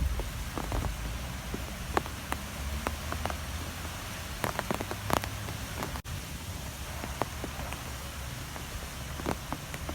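Strong wind blowing steadily with a low rumble and hiss, scattered with many sharp ticks and taps.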